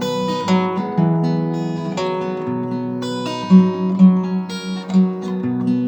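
Acoustic guitar playing an instrumental introduction, plucked and strummed chords ringing on in a slow, steady rhythm.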